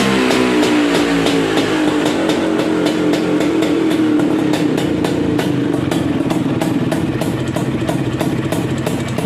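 Vespa scooter engine through a short racing exhaust that exits on the right. The revs slowly fall off over the first few seconds, then settle into a steady, pulsing run near idle.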